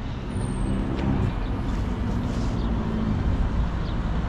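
A motor vehicle's engine running, a steady low drone.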